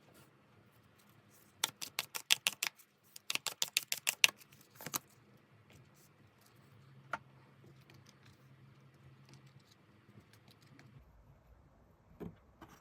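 Two quick runs of sharp clicks and slaps, about a second each, then a few single taps: tarot cards being shuffled and laid down by hand.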